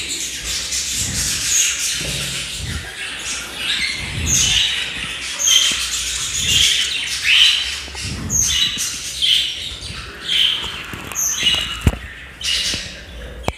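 Cockatiel squawking repeatedly, a harsh call about once a second, with low knocks and a sharp click about twelve seconds in from the breeding box being opened.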